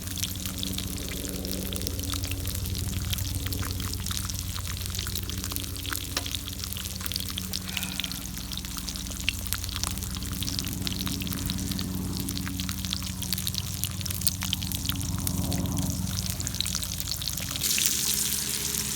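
Food crackling and popping on a hot camp grill over a steady low hum, turning into a louder, brighter sizzle near the end.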